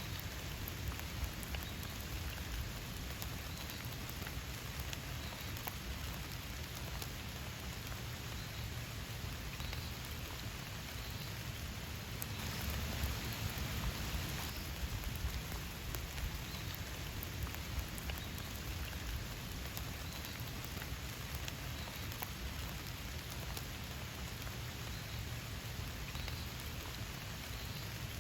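Steady rain falling, with many separate drops ticking through it. It grows a little heavier for a couple of seconds about halfway through.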